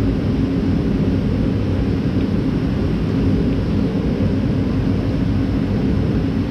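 A loud, steady mechanical drone, like a motor running, which dies away just after the end.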